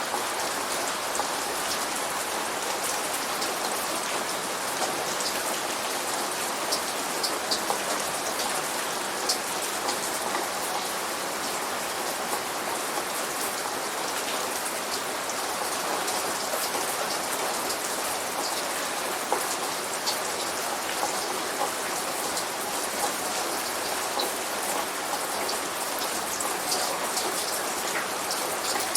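Steady light rain falling on a surface, an even hiss dotted with the ticks of individual drops.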